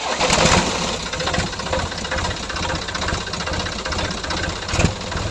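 Small engine of a DIY mini tractor running with a rapid, even knocking, starting suddenly.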